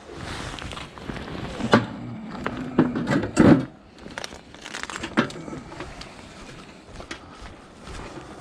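A series of knocks, clunks and crinkles from scrap being handled, loudest in a cluster about three seconds in, then lighter scattered taps.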